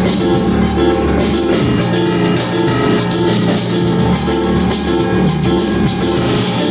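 Live rock band playing loudly: drum kit with dense cymbal and drum hits over distorted guitar and bass.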